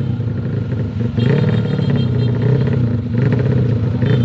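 DOHC racing motorcycle engine running hard at high revs, surging up again about a second in and again near three seconds in.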